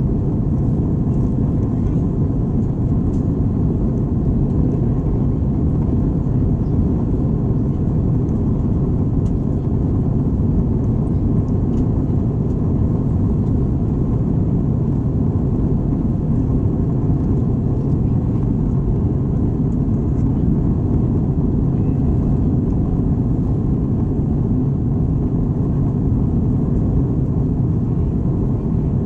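Steady low rumble of engine and airflow noise inside an Airbus A321 cabin, even and unbroken.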